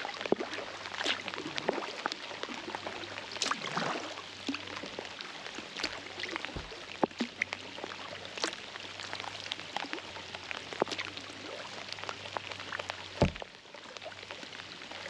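Rain falling on the river in a storm, a steady wash of noise full of sharp drops and splashes, with one louder knock near the end.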